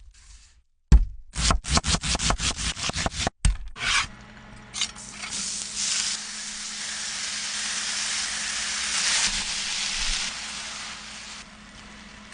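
Kitchen cooking sounds: a quick run of scraping strokes, about four or five a second, like a utensil working food in a pan. Then a steady sizzling hiss, like food frying in hot oil, that fades near the end.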